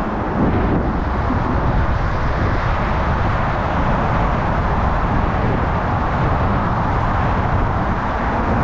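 Steady rushing roar of wind on the microphone mixed with road traffic, unbroken throughout.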